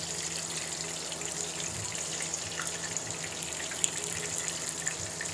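Chicken vegetable kebabs shallow-frying in hot ghee in a pan: a steady sizzle with fine crackling. One sharp tick about four seconds in.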